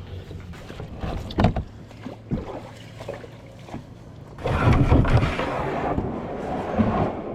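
Kayak on the water: a few sharp knocks in the first half, then a rush of water and wind noise for a couple of seconds.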